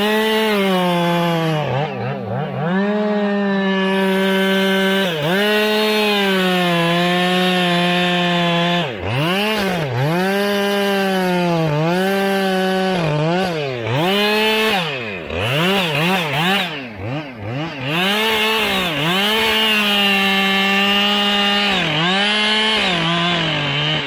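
Two-stroke chainsaw revved up to full throttle and cutting wood, its engine note sagging slightly as the chain bites. Several quick throttle drops and blips come in the middle, and it is let off near the end.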